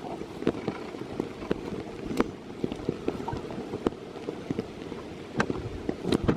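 Steady rain, with many irregular drops tapping close by and a few louder ones about two seconds in and near the end.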